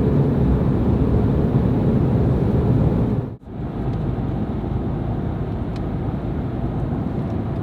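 Exhaust of a GM Colorado or Canyon 2.7-liter turbocharged four-cylinder through a Flowmaster American Thunder stainless cat-back, running under way with a deep, dense drone. It comes as two clips, the sound breaking off for an instant about three and a half seconds in, steadier and a little quieter after the cut.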